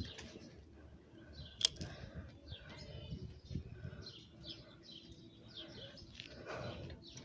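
Small birds chirping repeatedly, quick high calls one after another, with a single sharp click about one and a half seconds in and a low rumble of handling or wind underneath.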